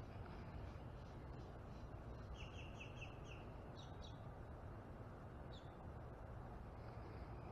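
A bird calling: a quick run of about five short chirps a couple of seconds in, then a few single higher notes, over a steady low outdoor background.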